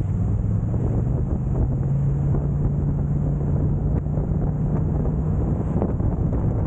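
Steady low engine drone, with wind rushing over the microphone.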